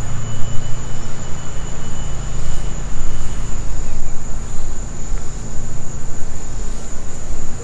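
A car engine idling with a steady low rumble, under the constant high drone of insects.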